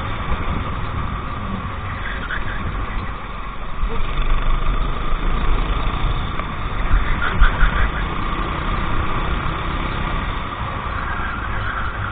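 Racing kart's engine running steadily at low revs over a strong low rumble.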